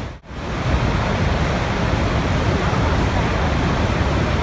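Steady rushing water. It drops out sharply for a fraction of a second just after the start, then carries on unchanged.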